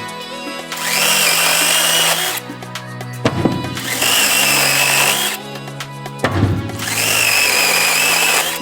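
Cordless brushless top-handle chainsaw running in three bursts of about a second and a half each, a steady high whine that stops between bursts, over background music.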